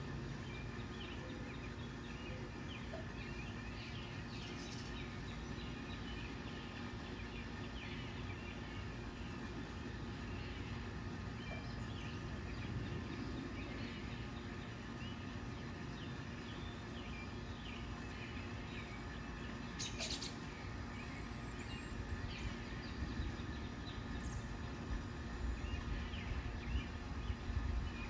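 Birds chirping in short, scattered calls over a steady background hum and low rumble, with one sharp click about two-thirds of the way through; the low rumble grows louder near the end.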